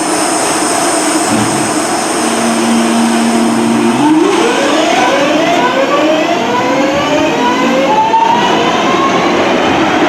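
Class 323 electric multiple unit pulling away. A steady electric whine changes about four seconds in to a series of rising whines, each climbing in pitch and then restarting higher, as it accelerates.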